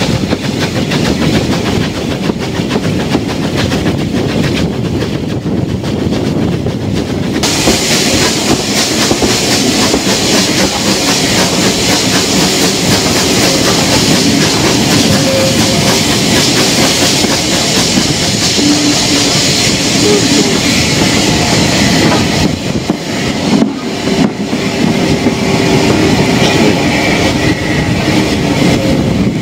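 Steam-hauled passenger train running on jointed track: a steady rumble with clickety-clack of the wheels. From about seven seconds in, a loud rushing hiss joins it and drops away again about twenty-two seconds in.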